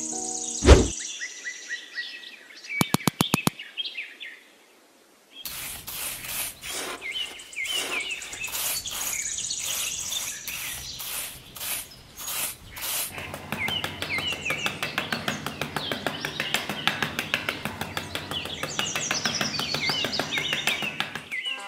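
Small birds chirping and twittering, with one sharp thump about a second in and a quick run of clicks near three seconds. After a brief near-silent gap, many birds chirp densely together for the rest of the stretch.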